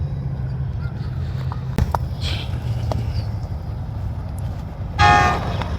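Steady low engine drone from a river launch on the nearby river, easing off after about three seconds, with a few faint clicks. Near the end, a short loud pitched call cuts in briefly.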